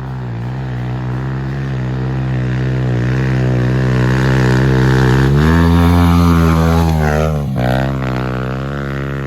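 Pit bike engine running under throttle on a trail climb. It revs up and gets louder about five seconds in, holds for a couple of seconds, then drops off briefly and settles back to a steady run near the end.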